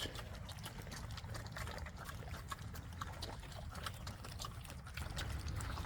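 Young pigs eating their feed: faint, irregular wet chewing and smacking clicks, with no squeals or calls.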